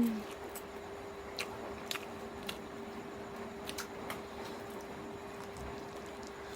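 Scattered faint clicks and smacks of someone chewing chicken feet, heard over a steady electrical hum.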